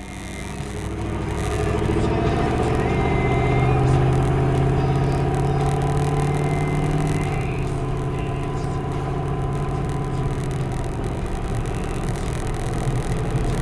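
GM 6.5-litre turbo-diesel V8 with an exhaust that is nearly a straight pipe off the turbo, pulling away and building speed over the first two seconds, then running on steadily. It is recorded through a dash cam with the windows open, and the dash cam's feed picks up alternator noise.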